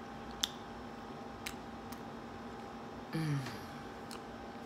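Close-up chewing of smoked turkey sausage, with a few sharp wet mouth clicks, the loudest about half a second in. About three seconds in comes a short falling hum of the voice, over a steady low hum in the room.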